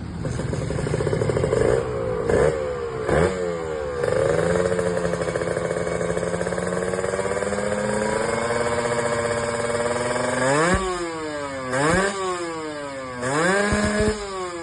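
Kawasaki Ninja RR's 150 cc single-cylinder two-stroke engine being revved to test a freshly adjusted carburettor air setting. It gives a few quick throttle blips, holds a steady higher rpm for several seconds, then makes three sharp blips that fall back toward idle.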